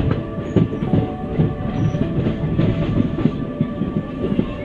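Passenger train running on broad-gauge track, heard from on board: a steady rumble and rattle with the wheels clacking irregularly over rail joints.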